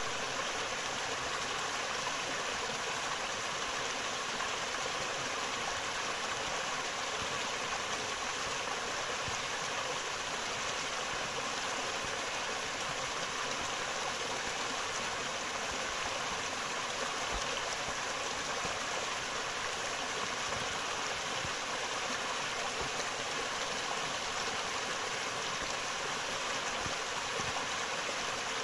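Forest river flowing over rocks: a steady rushing and splashing of water that holds an even level.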